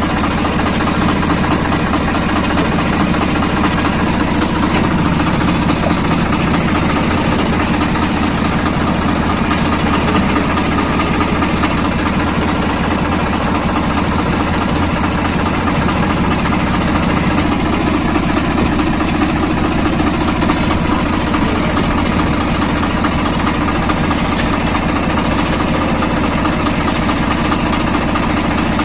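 Swaraj 855 FE tractor's three-cylinder diesel engine running steadily at an even pitch.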